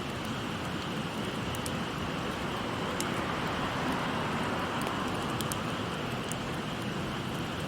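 Wood fire crackling with scattered sharp pops, over the steady rush of a flowing stream.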